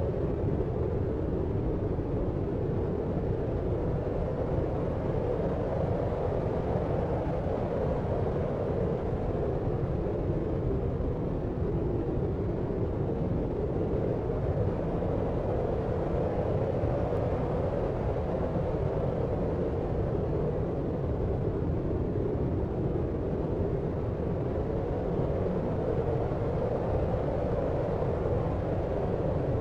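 Steady deep noise for sleep, like brown noise with a distant city rumble: even and unbroken, heavy in the low end and muffled above.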